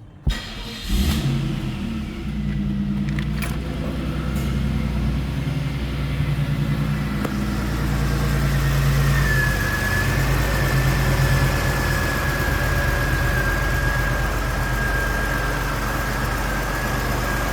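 Cold start of a 1990 Chevrolet Beretta Indy's 3.1-litre V6: the engine catches about a second in and settles into a steady fast idle. A thin, steady high whine joins about nine seconds in.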